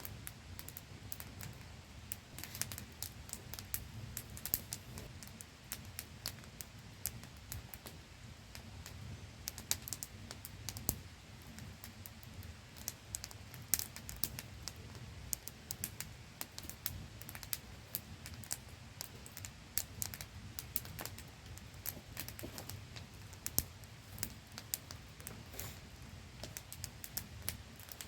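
Wood campfire crackling with irregular sharp pops and snaps, several a second, over the steady static-like rush of a small waterfall.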